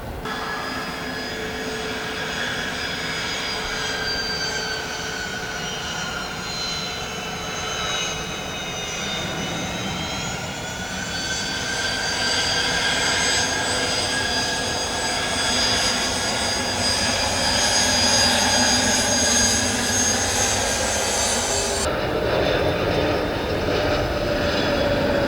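Airliner engines whining at close range, several tones over a rushing noise. The pitch sags about nine seconds in, then climbs and grows louder. The sound changes abruptly near the end.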